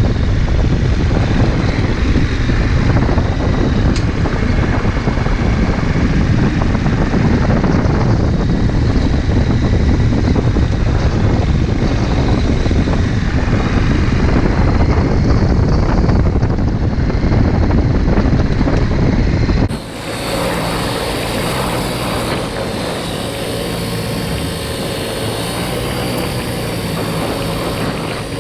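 Motorcycle riding at speed: engine running under heavy wind rush on the onboard microphone. About two-thirds of the way through, the sound changes abruptly to a steadier engine drone with a clearer pitch and less wind.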